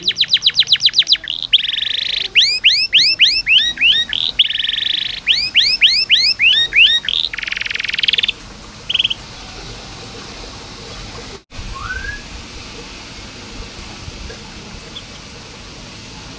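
Domestic canary singing: fast trills of rapidly repeated notes alternating with runs of quick rising swept notes, stopping about halfway through. After that there is only a steady hiss with one brief chirp.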